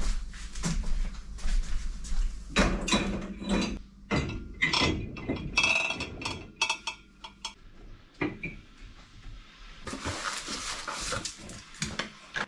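Kitchen clatter of dishes and utensils being handled: repeated knocks and clicks, with a cluster of ringing clinks about halfway through and a soft rushing noise for a couple of seconds near the end.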